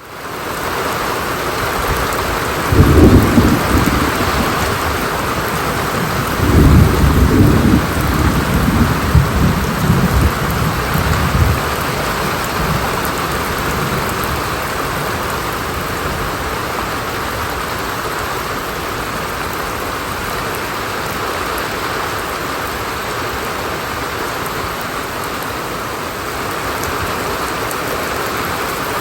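Steady rain falling, with thunder rumbling twice: a short roll about three seconds in and a longer one from about six to eleven seconds in.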